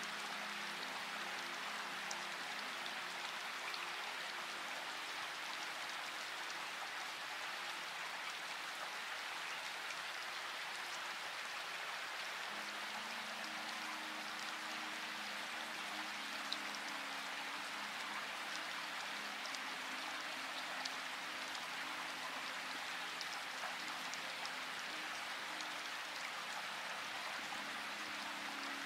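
Steady rain falling, an even hiss with scattered drop ticks, under a few soft held low notes of background music that shift pitch about halfway through.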